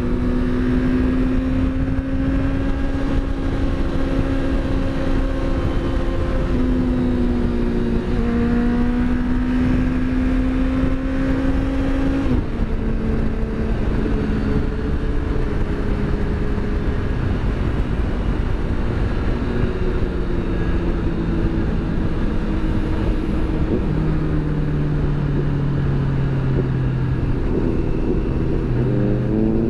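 Motorcycle engine running at road speed over heavy wind and road rush; its note holds steady for stretches, shifts in pitch several times with throttle and gear changes, and climbs near the end as it accelerates.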